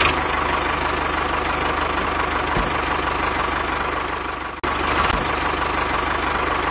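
A small engine running steadily with a fast, even chugging and a steady whine above it. It cuts out for an instant a little past halfway and picks up again.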